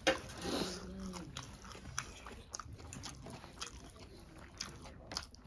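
Close-up sounds of people eating rice by hand: chewing and lip smacks with scattered small, sharp clicks. There is a brief low voiced hum near the start.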